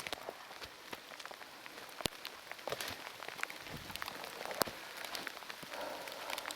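Heavy steady rain, with single drops landing close by as sharp, irregular ticks over the even hiss.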